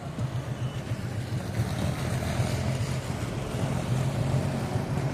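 Motorcycle engine running with a steady low, pulsing sound, with wind rushing over the microphone while riding.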